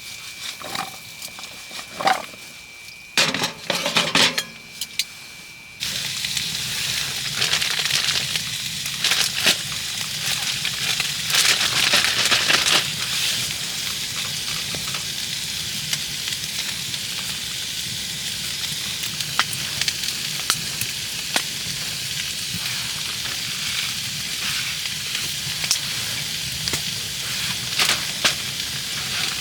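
Food sizzling and frying in a pan, a steady hiss with many small crackles. It starts abruptly about six seconds in, after a quieter stretch of a few clicks and knocks.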